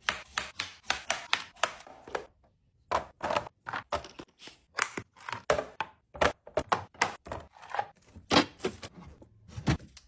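Knife chopping cucumbers on a cutting board: quick, sharp strokes, several a second, broken by a short pause about two seconds in.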